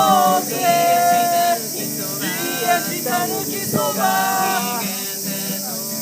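Live singing of a song with acoustic guitar accompaniment: sung phrases with held notes over steady strumming.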